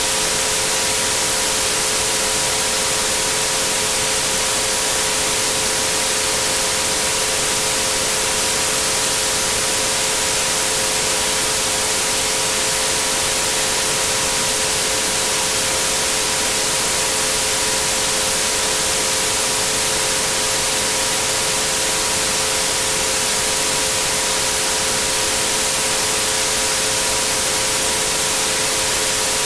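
Steady white noise hiss with three pure tones held unchanging beneath it, at about 432, 528 and 963 Hz.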